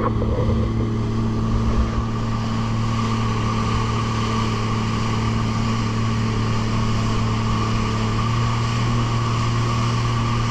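Boat engine running steadily, a constant drone that holds one pitch.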